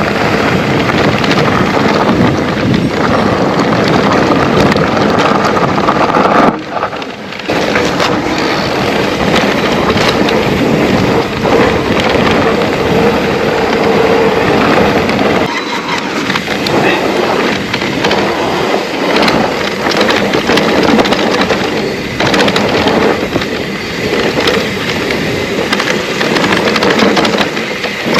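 Trek Rail electric mountain bike riding over a rough trail: steady rush of wind and tyre noise with rapid rattling knocks from the bike over bumps. The noise briefly drops for about a second, near a quarter of the way in.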